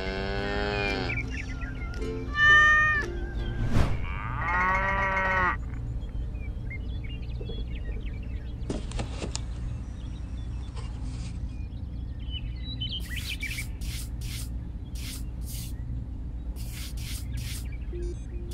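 Three short pitched animal calls in the first six seconds, over a low steady background hum. Later a small hand trowel scrapes sand in a run of short strokes, about two a second.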